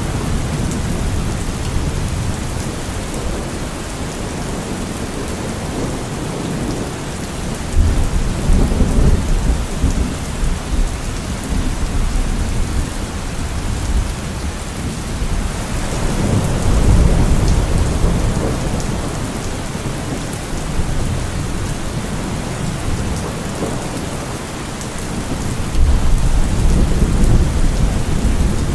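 Steady heavy rain with thunder rumbling low three times: about a quarter of the way in, around the middle, and near the end.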